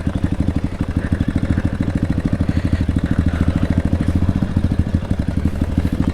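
Trail dirt bike engine idling steadily with a rapid, even putter, not revving.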